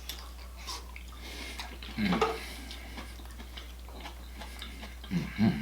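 Close-miked eating sounds of mussels in garlic butter sauce: faint light clicks and wet smacks, with two short low voiced sounds, about two seconds in and near the end.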